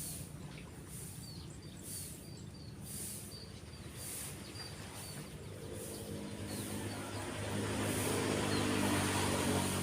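Small birds chirping in short, repeated calls, then a passing motor vehicle's engine growing louder from about halfway through and loudest near the end.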